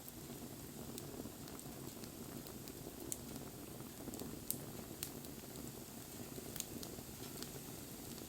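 Wood fire burning, a steady low rush of flames with scattered sharp crackles and pops from the burning wood.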